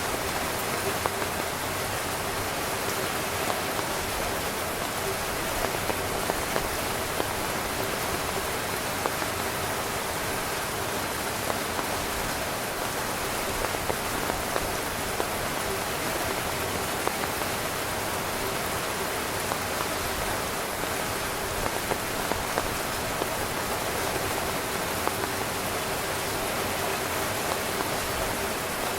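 Steady rain pattering on a tent, a dense even hiss of rainfall with many small sharp drop hits on the fabric.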